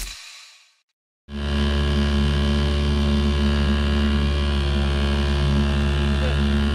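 A brief click that fades into a moment of silence, then a boat engine starts sounding about a second in and runs steadily at constant speed.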